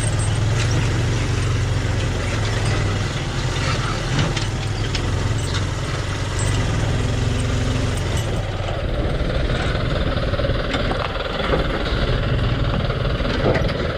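Honda XR150L's single-cylinder engine running at low speed on a rough track, a steady hum for about eight seconds that then turns rougher and noisier, with scattered knocks and rattles.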